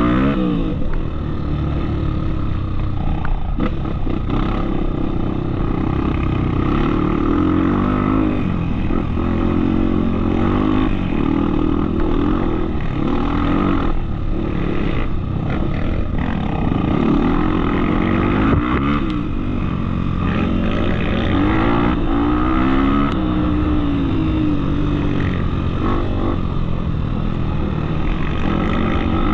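Off-road trail motorcycle engine running under load, its pitch rising and falling over and over as the throttle opens and closes.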